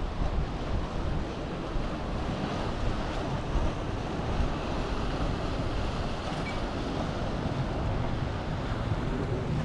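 Sea waves washing onto a sandy beach in a steady wash of surf, with wind buffeting the microphone.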